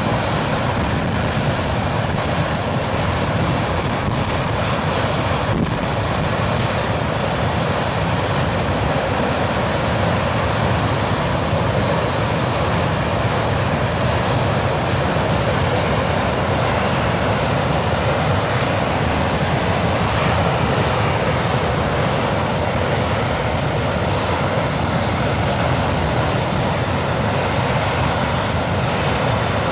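English Electric Lightning's No. 1 Rolls-Royce Avon turbojet running steadily on a ground test run: a constant, loud jet rush with no change in power.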